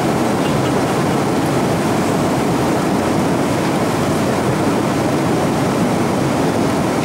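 Steady rush of cabin noise inside an Airbus A321 in flight: airflow and engine noise, strongest in the low and middle pitches.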